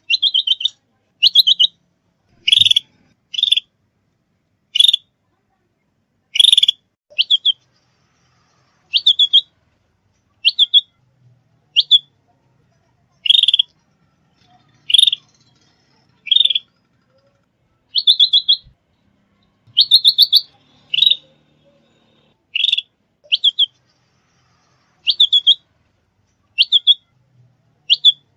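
Small songbird giving short, high chirping phrases, each a quick run of a few notes, repeated over and over with brief silences between them, about one phrase a second.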